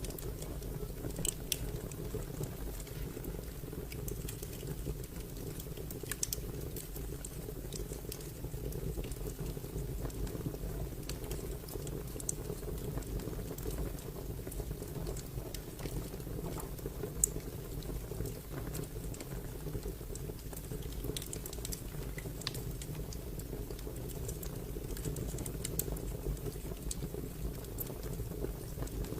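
Wood fire crackling: a steady low rustle of burning with irregular sharp pops and snaps scattered through it, one louder pop partway through.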